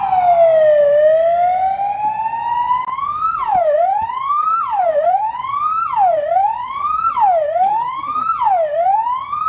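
Electronic emergency-vehicle siren: one slow wail that falls and then rises, switching about three seconds in to a faster cycle that rises and drops off about once a second.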